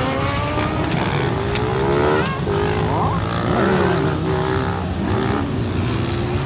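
Several motorcycle engines revving at once, their pitch climbing and falling as they speed up and ease off, over a steady low engine hum.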